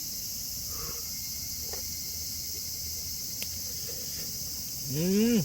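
A steady, high-pitched chorus of insects buzzing. Near the end a person gives a short hum that rises and then falls in pitch.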